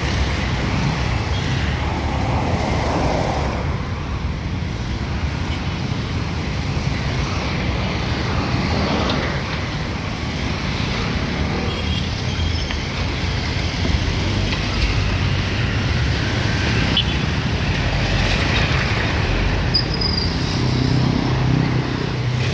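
Steady road traffic noise: vehicle engines running and tyres on the road, a continuous low rumble.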